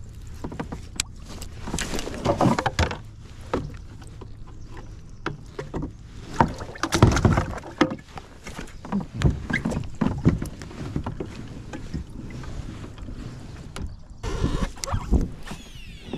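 Sounds of a fishing kayak on the water: irregular sloshing and knocks against the hull, with scattered sharp clicks, loudest around 2 s, 7 s, 9 to 10 s and 15 s in.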